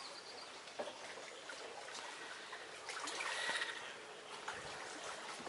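Quiet lakeshore ambience: water lapping and trickling gently at the shore, with small ticks and a brief swell of noise a little past three seconds in.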